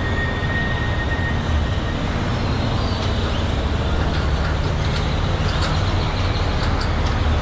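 Truck engine running steadily with a low rumble. A faint high steady tone stops about a second and a half in, and a few light clicks come in the second half.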